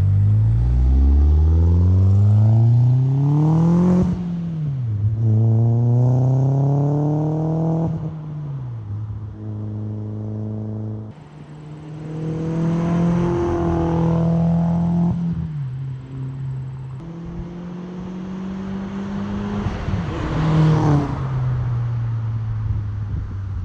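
Audi A4 B6 1.8T turbocharged four-cylinder with a resonator-delete ECS catback exhaust accelerating hard. The engine note climbs with revs and drops at gear changes about four and eight seconds in. It then holds, pulls up again to its loudest point near the end and eases off.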